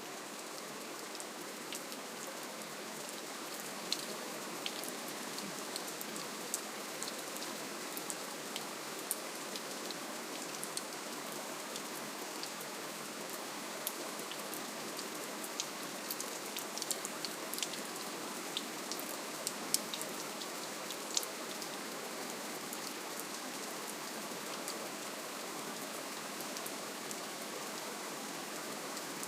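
Steady, gentle rainfall: an even hiss of rain with many small, sharp drop ticks scattered through it.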